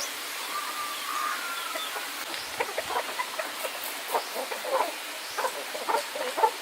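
Chickens clucking, a quick run of short calls starting about two seconds in, over a steady hiss.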